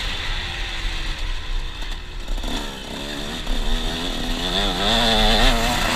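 KTM 125 SX two-stroke motocross engine revving under the rider's throttle: it eases off about a second in, then picks back up from about two and a half seconds, its pitch rising and falling with each blip.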